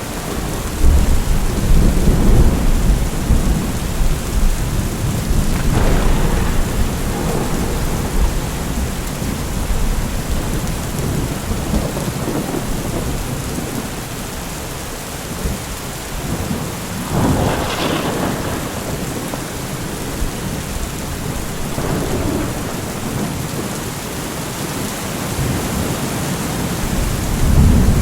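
Thunderstorm: steady rain with rolling thunder, a heavy rumble about a second in, a sharper crack of thunder about two-thirds of the way through, and another rumble near the end.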